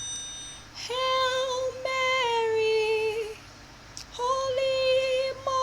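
A solo female voice singing a slow hymn unaccompanied, in two phrases of long, drawn-out notes. A single keyboard note fades out just before the singing begins.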